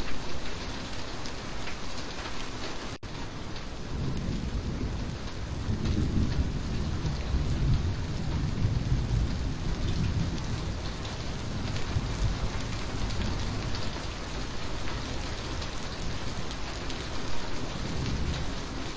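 Steady rain falling, with a long low rumble of rolling thunder that builds from about four seconds in and dies away near the end. About three seconds in there is a momentary dropout in the sound.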